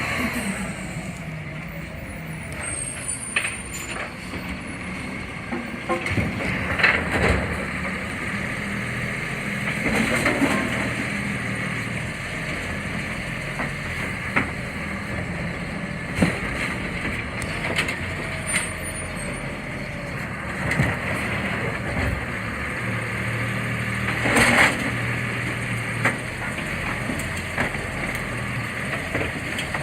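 CNG Autocar Xpeditor garbage truck running steadily, with several short air-brake hisses and knocks, the loudest about 7, 10 and 24 seconds in.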